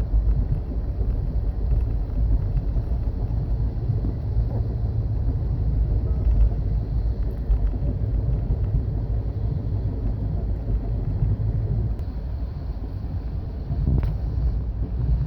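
Amtrak Coast Starlight passenger train running at speed: a steady low rumble of wheels on rail and car noise from inside the train, with a couple of faint clicks near the end.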